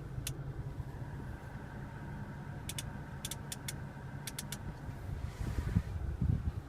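Steady low hum inside a car cabin, with a quick run of light clicks in the middle from the infotainment rotary controller and buttons being worked.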